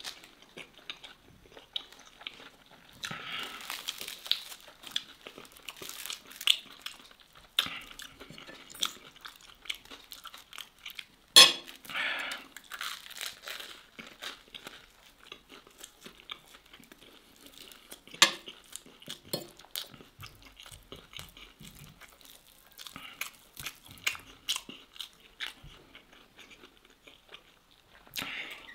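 Close-up chewing and biting of pieces of steak eaten by hand, a steady run of small wet mouth clicks. A few sharper clicks stand out, the loudest about eleven seconds in and another about eighteen seconds in.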